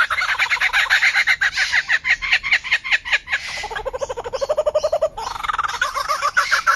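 A bird calling in fast runs of short repeated notes, with a lower-pitched run about halfway through before the higher chatter returns.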